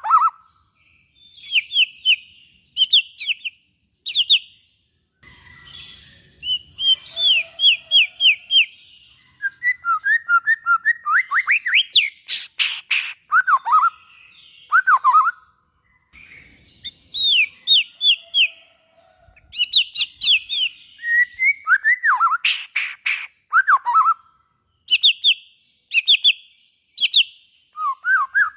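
White-rumped shama (murai batu) singing: phrases of quick repeated whistled notes, some sliding upward, mixed with sharp clicking notes and broken by short pauses.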